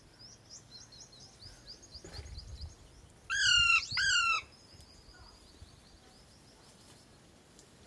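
Parrot giving two loud calls in quick succession about three seconds in, over faint, quick, high chirping from a bird.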